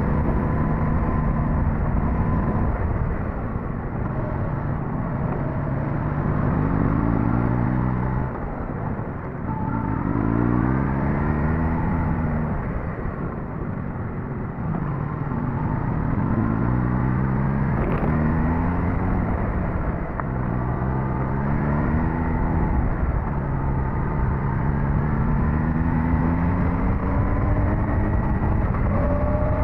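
Suzuki GSX-S1000GT's inline-four engine under way, its pitch rising several times as the throttle opens and dropping back in between, over steady riding noise.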